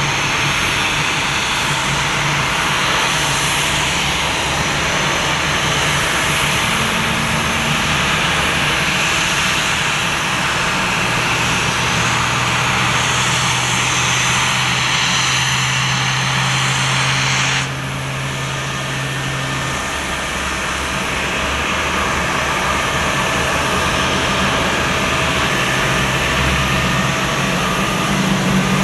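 Jet engines of a Boeing 767-300F freighter running with a loud, steady rushing noise and low hum. About two-thirds of the way in, the high hiss cuts off suddenly and the sound becomes a little quieter.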